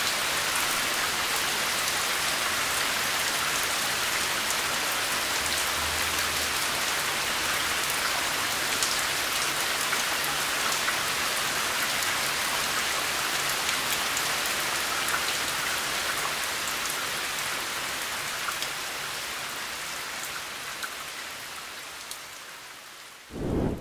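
Steady rain falling on a surface, with single drops ticking through the hiss. It fades out gradually over the last few seconds, with a brief low thud just before it ends.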